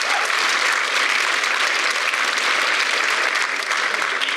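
Audience applauding steadily, a dense patter of many hands clapping, beginning to thin out near the end.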